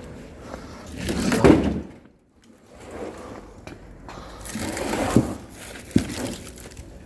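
Oak firewood being handled: scraping and rustling of split logs being moved, with a few sharp wooden knocks.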